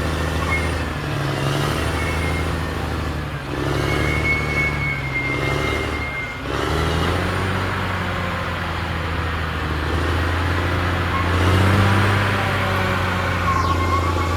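Caterpillar D6R XL bulldozer's diesel engine running under load. Its pitch sags briefly a few times and swells again about three-quarters of the way through as the load on the blade changes.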